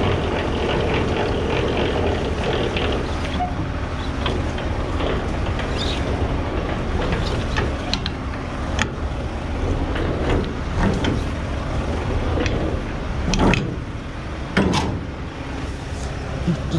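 Scania V8 truck engine idling steadily, with a few sharp knocks over it, the loudest two near the end.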